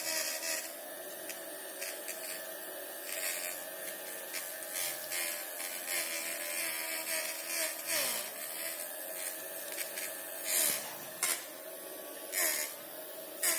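Small DC motor with a fan, the drive of a homemade water-bottle vacuum cleaner model, running with a steady buzzing whine that dips in pitch briefly a couple of times, over repeated short scratchy rubbing noises.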